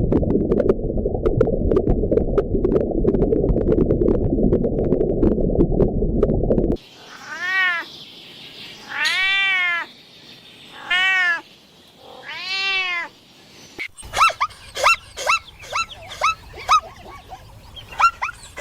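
A cat meowing: four long meows that rise and fall in pitch, about a second apart. They follow several seconds of a dense, low rushing noise that cuts off abruptly, and near the end give way to a quick run of short, high cries.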